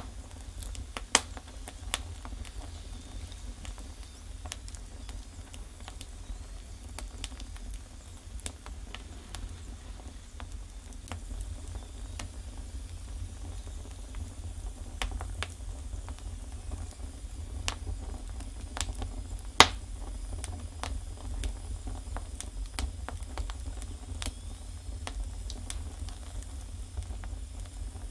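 Wood fire burning in a fireplace, crackling steadily with scattered sharp pops, the loudest about a second in and about two-thirds of the way through, over a low steady rumble.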